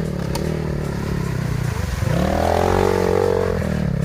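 Enduro motorcycle engine running. It revs up about halfway through, holds the higher revs and eases off near the end.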